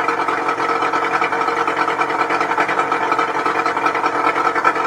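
Evinrude 60 hp VRO two-stroke outboard motor idling steadily and evenly, purring like a kitten.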